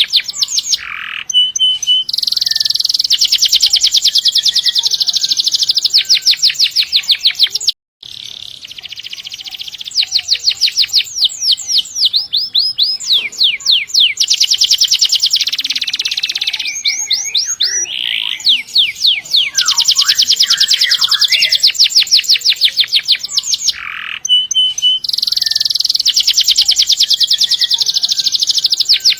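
Canary singing long, fast rolling trills of high repeated notes, run after run with a few sweeping notes and short breaks between phrases.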